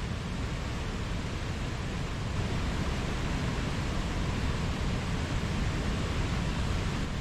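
Mountain stream rushing and burbling over rocks: a steady, full wash of flowing water.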